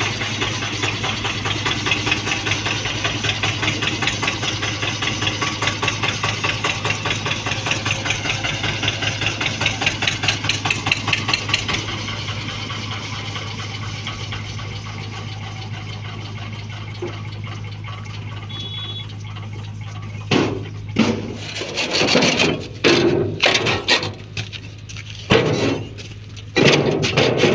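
Eicher 242 tractor engine running with a rapid, even beat, which becomes quieter and steadier about twelve seconds in. Near the end, a series of irregular loud bursts of another, unidentified sound breaks in over the engine.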